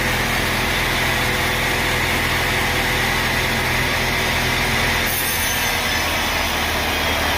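Sawmill machinery running steadily with a heavy mechanical hum; about five seconds in the sound changes, a high hiss joining as the low hum shifts.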